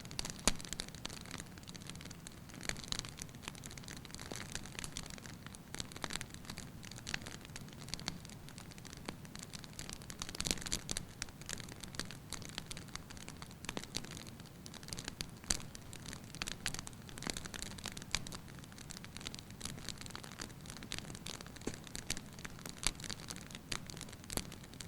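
Firewood burning in a fireplace with a light crackle: irregular pops and snaps, some louder ones scattered throughout, over a soft steady low rumble.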